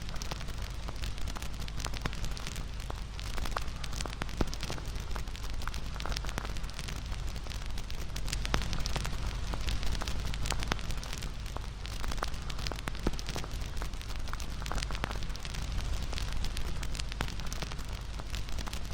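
Wood campfire burning: irregular crackles and pops from the burning wood over a steady low rumble of the flames.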